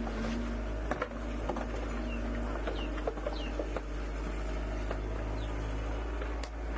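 Short falling bird chirps, several over a few seconds, over a steady low hum, with scattered sharp clicks.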